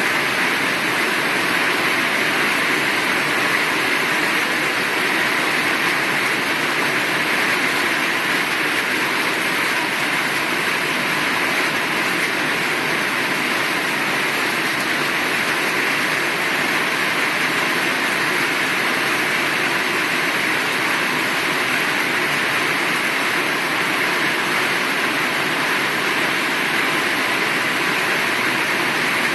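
Heavy rain falling steadily, a dense even hiss with no breaks or thunderclaps.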